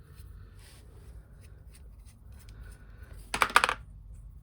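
Quiet handling of small parts, then a quick burst of clicks and rattles about three seconds in as a new plastic fixing clip and screw are handled and fitted at the washing machine's front frame.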